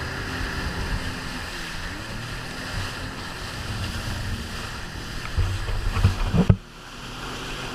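Jet ski engine running under way, with rushing water and wind buffeting the microphone. The rumbling grows louder about five and a half seconds in, then drops off sharply about a second later.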